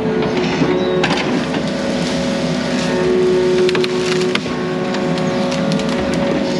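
Yanmar mini excavator running steadily with several held engine and hydraulic tones, over repeated sharp cracks and snaps of wood and brush being broken and crushed.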